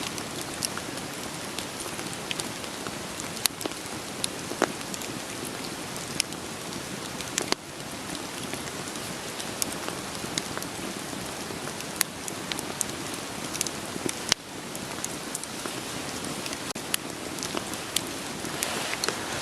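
Steady rain hiss with scattered sharp pops and crackles of burning firewood. The sound dips briefly twice, about a third and two thirds of the way through.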